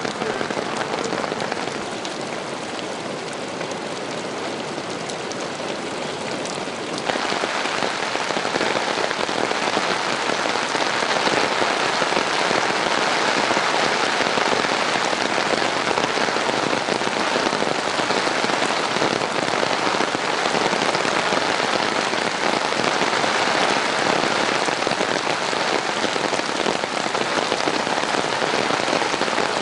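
Heavy rain pouring down, a dense steady hiss of drops hitting surfaces, which grows suddenly louder about seven seconds in.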